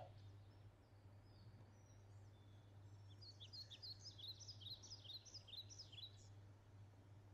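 Faint bird chirping: a run of quick, high, downward-slurred notes starting about three seconds in and lasting some three seconds, over a steady low hum.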